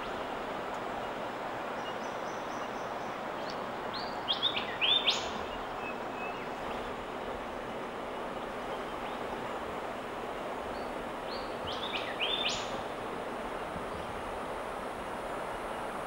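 Steady outdoor ambient hiss with a bird calling twice, each time a quick run of a few short high notes, about four seconds in and again about twelve seconds in.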